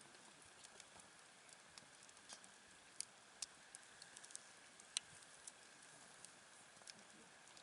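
Campfire crackling faintly, with scattered small pops, the sharpest about three and five seconds in, over a soft steady hiss.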